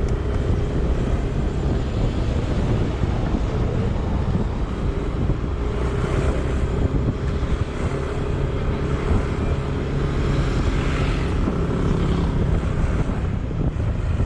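A vehicle's engine running steadily while driving, with wind rushing over the microphone.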